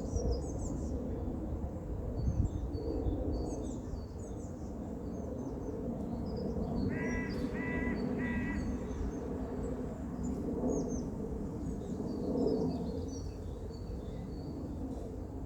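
Garden birdsong, small songbirds chirping and twittering, with a crow cawing three times in quick succession about seven seconds in. A steady low background noise runs underneath.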